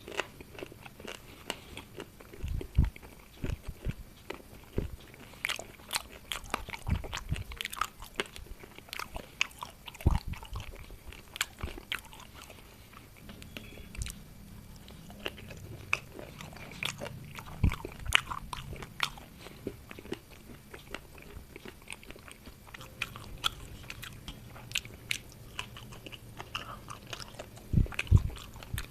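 Close-up eating sounds: a person chewing and crunching food, with many irregular short clicks and a few dull low thuds.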